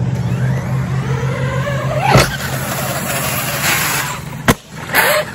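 Kraken Vekta 12S electric fifth-scale RC truck speeding up with a rising motor whine, a sharp knock about two seconds in as it leaves the ramp, and a hard smack about four and a half seconds in as it lands on concrete.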